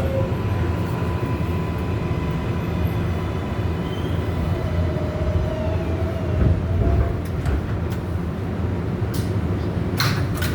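Inside an R188 subway car on the 7 line: a steady low rumbling hum with faint whining tones from the train's onboard equipment, and a few short sharp sounds near the end.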